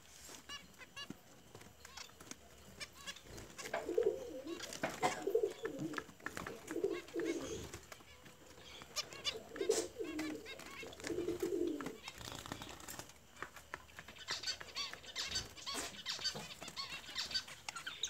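Low cooing calls in short repeated phrases for several seconds in the middle, over faint high chirps from finch nestlings that grow busier near the end.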